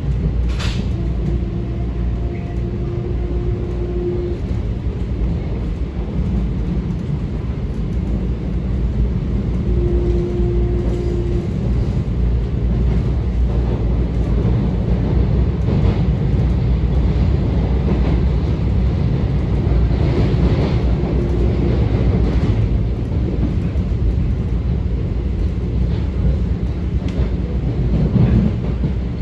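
Metro-North M7A electric multiple-unit train running between stations, heard from inside the car: a steady rumble of wheels on rail. A sharp click comes under a second in, and a short steady hum rises above the rumble twice, about one second in and again about ten seconds in.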